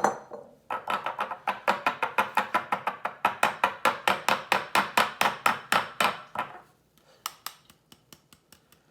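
Metal kitchen strainer knocked rapidly and evenly against a bowl, about six knocks a second, to work the beaten egg through the mesh. After about six seconds it stops, and a few scattered knocks follow.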